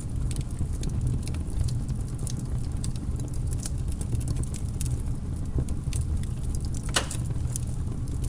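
Wood logs burning in a fireplace: a steady low rumble of the fire with scattered crackles and small pops, and one louder pop near the end.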